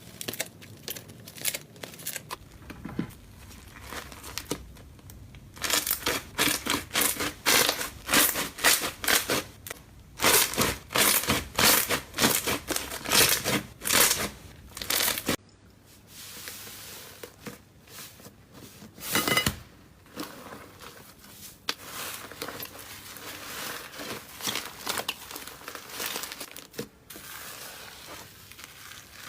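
Slime being handled close to the microphone, giving a long run of quick crackles and pops. The crackling is densest and loudest in the first half, then turns softer and sparser.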